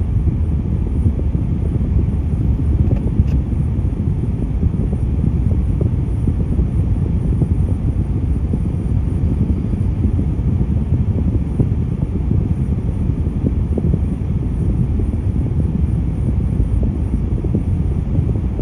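Steady low rumble of a road vehicle, with an even level and no sudden changes.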